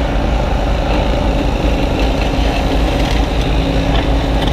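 Kubota U35-3 mini excavator's diesel engine running steadily, a loud, even low rumble with a steady hum over it.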